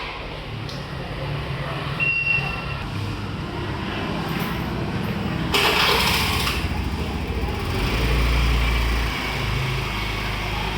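Motorbike engine running with a steady low rumble, and a brief noisy rush about six seconds in.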